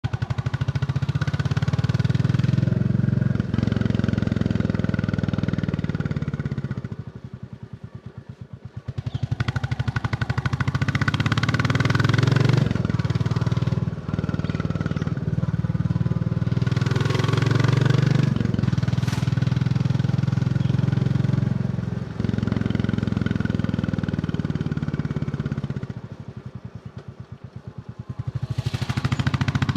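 Royal Enfield Bullet 350's single-cylinder engine thumping under way. About seven seconds in, and again near the end, the throttle closes and the beat drops quieter and slower for a couple of seconds before the engine pulls up again.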